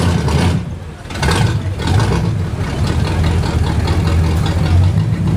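A motor vehicle's engine running with a steady low hum, briefly dropping in level about a second in.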